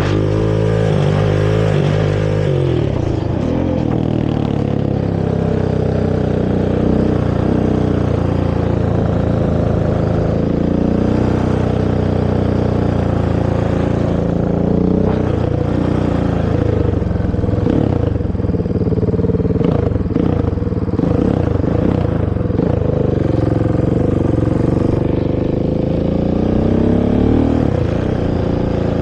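Honda TRX450R ATV's single-cylinder four-stroke engine through its stock exhaust, under way, its pitch rising and falling again and again as the throttle opens and closes and it shifts through the gears.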